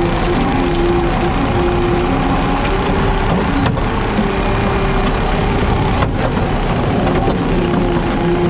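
JCB teleskid skid steer's diesel engine running steadily, driving a 7-foot Jenkins rotary brush cutter (bush hog) while mowing, with a few slightly wavering hum tones over dense machine noise.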